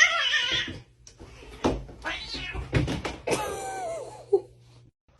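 Cat meowing: a loud wavering yowl at the start, two sharp knocks, then another drawn-out meow falling in pitch, ending a little before the end.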